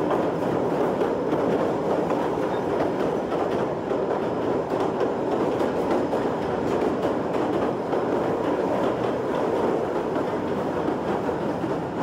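Kurobe Gorge Railway narrow-gauge train car running through a tunnel: a steady, loud rumble and clatter of steel wheels on the rails, carried straight into the open-sided car by the close tunnel walls.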